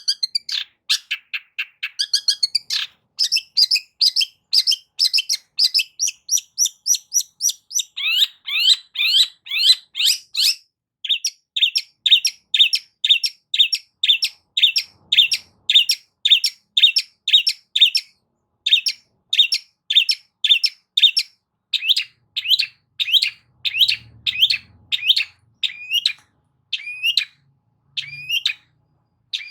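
Long-tailed shrike (cendet) singing a fast run of short, sharp repeated notes, several a second. The phrase keeps changing: quick high notes, then a run of notes sweeping in pitch, then a long stretch of evenly repeated chips that spread out and slow near the end.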